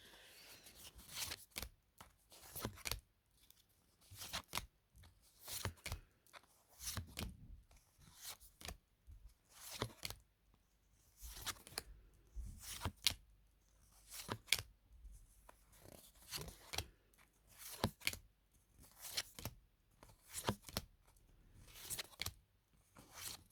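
Tarot cards being handled one after another: short papery swishes and slaps, about one a second, as each card is slid off the deck and laid down.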